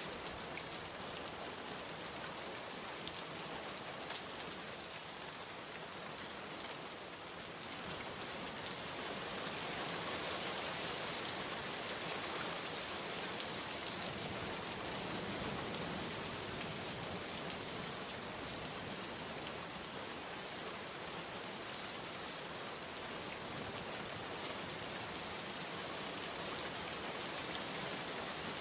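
Steady rain falling, a dense even hiss of drops on surfaces that grows a little heavier about eight seconds in.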